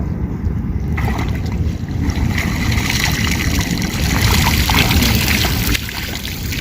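Wind buffeting the microphone out on the water, with a broad hissing rush of water noise. The hiss swells about a second in and falls away near the end.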